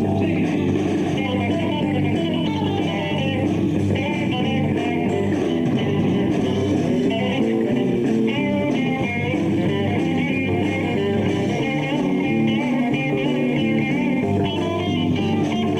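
Live rock band playing an instrumental passage with a busy lead guitar line over bass and drums, in a bluesy rock-and-roll style.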